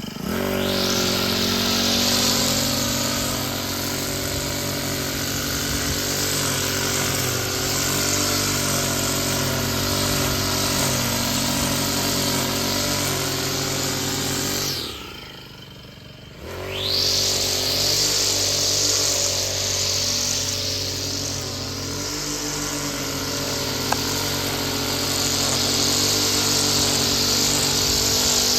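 Small petrol engine of a handheld lawn tool running at high revs. About halfway through it drops back near idle for a second or two, then revs up again.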